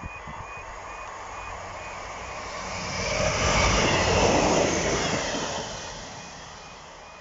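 Class 158 diesel multiple unit passing at speed, its rushing wheel and engine noise swelling to a peak about halfway through and then fading. The level crossing's warning alarm keeps up a steady run of short, rising beeps underneath.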